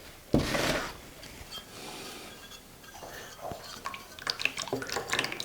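Liquid ceramic glaze poured out of a bisque-fired cup in a brief rush about a third of a second in, followed by light clinks and knocks of ceramic ware being handled.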